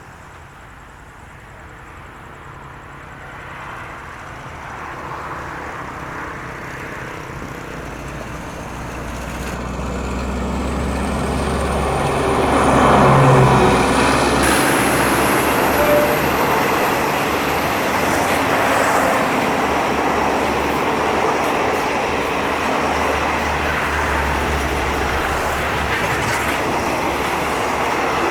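An Alsthom diesel-electric locomotive approaches and passes, its engine growing steadily louder. About ten seconds in, a multi-tone horn sounds for roughly five seconds while the locomotive goes by. The coaches then roll past with a continuous rumble of wheels on rail.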